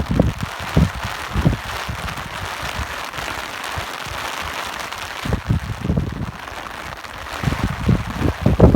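Steady rain hiss with low, gusty rumbles of wind coming and going, busiest in the first second or so and again near the end.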